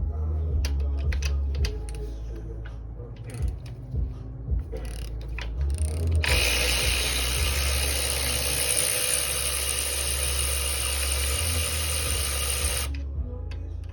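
Ratchet wrench clicking in short runs during engine teardown. About six seconds in, a loud steady hiss starts and runs for about seven seconds before cutting off suddenly.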